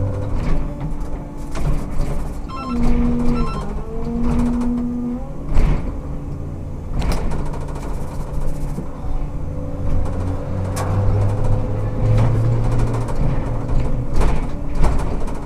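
Ikarus 280T trolleybus running: a steady electric hum over low rumble and rattles, with two short buzzing tones, one about three seconds in and one about four and a half seconds in.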